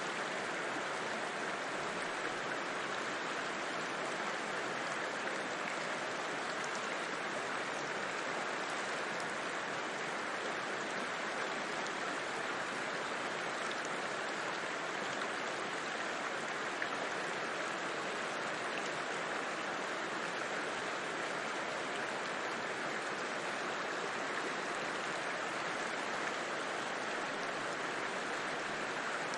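River flowing, a steady, even wash of water noise that keeps the same level throughout.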